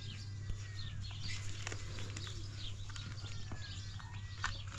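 Small birds chirping and twittering in many quick, high calls, with a few thin whistled notes, over a steady low hum.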